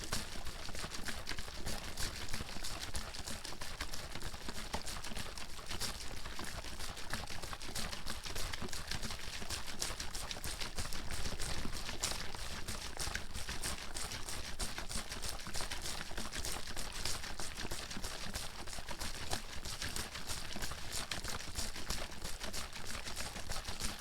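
Water bottle with water in it being shaken nonstop: a rapid, even rattle of sloshing and splashing liquid.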